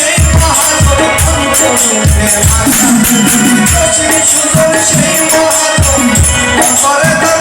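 Instrumental passage of a Bengali folk song played by a band: a steady rhythm of low drum beats under a sustained melody line, with high jingling hand percussion.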